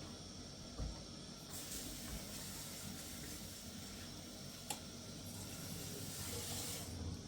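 A steady hiss that starts about one and a half seconds in and stops shortly before the end, with a single sharp click partway through.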